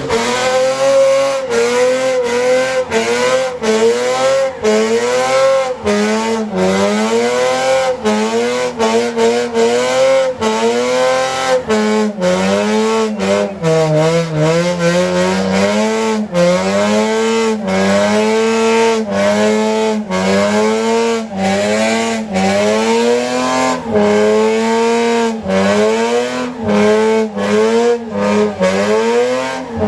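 Car engine held at high revs during a burnout, its pitch rising and falling continuously with brief cut-outs about every second as it bounces off the rev limiter.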